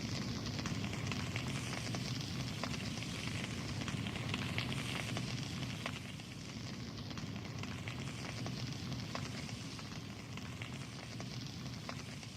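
Wood fire burning in a Supra Temporis fireplace: a steady low rush of flames with scattered small crackles.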